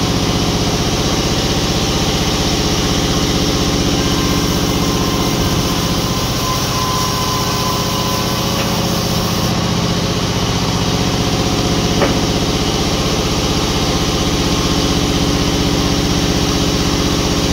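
Sawmill machinery's engine running steadily at an even speed, with one short click about twelve seconds in.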